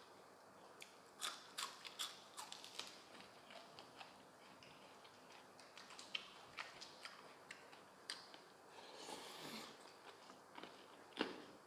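Close-up eating sounds: a person chewing and biting braised chicken feet and raw greens, with irregular sharp wet clicks and crunches from the mouth. About nine seconds in there is a roughly one-second breathy rush.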